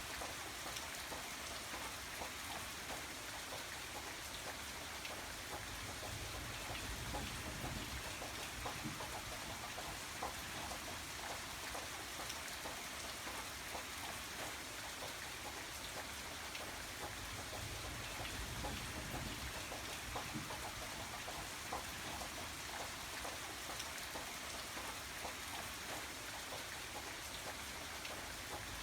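Steady rain falling, with many separate drops pattering on a surface.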